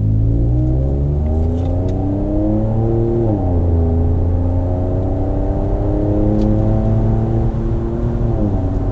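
2019 Ford Edge ST's twin-turbo V6 breathing through a Borla S-Type cat-back exhaust under acceleration, heard from inside the cabin with the windows up. The engine note climbs in pitch, drops at an upshift a little over three seconds in, then climbs again and drops at another shift near the end.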